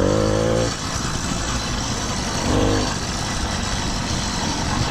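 Motorized bicycle's 100 cc two-stroke engine kit just started, running and revving in short rises in pitch, once near the start and again about two and a half seconds in.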